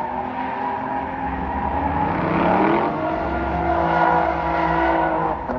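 A car's engine held at high revs while drifting, with tyres squealing; the engine pitch climbs about two seconds in, holds, and dips briefly near the end.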